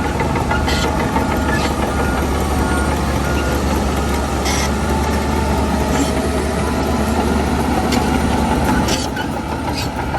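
Heavy diesel earthmoving machinery running steadily under load, with a deep engine drone and scattered sharp metallic clanks. It eases off slightly near the end.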